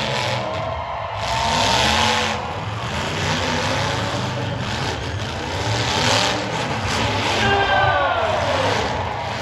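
Several demolition derby cars' engines revving hard at once, their pitches rising and falling over one another in repeated surges.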